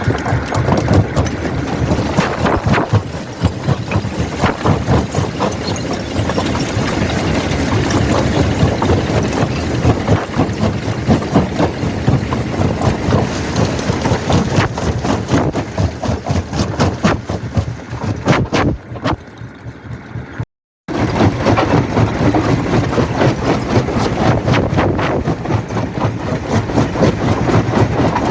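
Quarry primary jaw crusher running and crushing rock: a dense, loud clatter of stone impacts and crunching over the drone of the machinery. Shortly after two-thirds of the way through it eases off, cuts out for a split second, then resumes.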